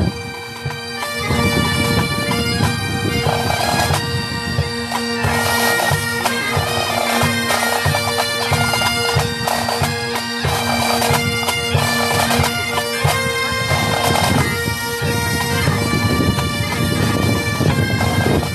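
Military pipe band of bagpipes and drums playing a march: steady pipe drones under the chanter's melody, with the drums beating through it and wind buffeting the microphone.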